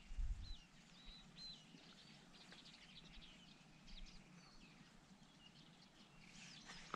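Faint birdsong: small birds chirping and twittering in short, quick notes, with a couple of low knocks in the first half second.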